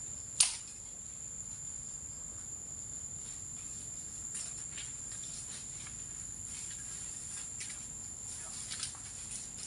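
Steady high-pitched drone of insects in the grass, with a sharp click about half a second in and faint scattered rustles.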